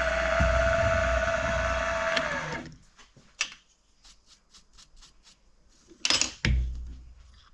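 Milling machine running with a steady whine, then switched off about two and a half seconds in, its pitch falling as it winds down. A few light clicks and a sharp knock follow, then two louder knocks near the end.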